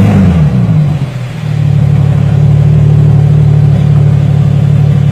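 Porsche 981 Boxster's flat-six engine, fitted with an Armytrix valved exhaust, just after start-up: a loud flare that falls away over the first second, a short dip, then a steady idle.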